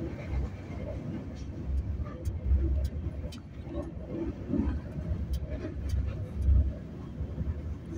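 Express passenger train running at speed, heard from inside the coach: a steady low rumble that swells and eases, with scattered sharp clicks.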